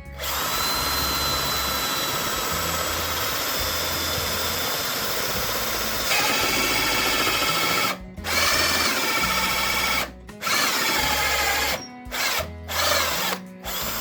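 A power drill running: one long run of about eight seconds, then several shorter bursts that stop and start abruptly, the whine bending in pitch as the bit loads.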